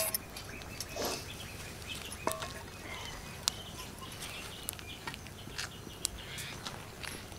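Quiet rural background with faint bird chirps over a low hiss and a few scattered small clicks.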